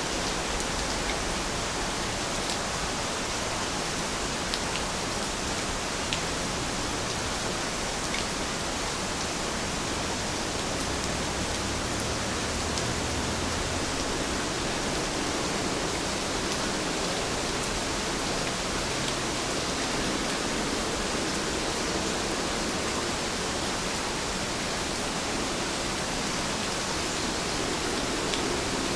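Heavy rain falling steadily, a dense even hiss with a few faint individual drop ticks.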